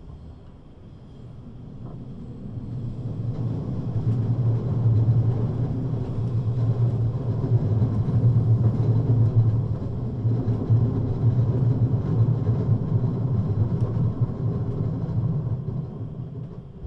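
Running noise of a Siemens Desiro HC electric multiple unit heard from on board: a low rumble that builds over about three seconds, stays loud for about ten, then fades near the end.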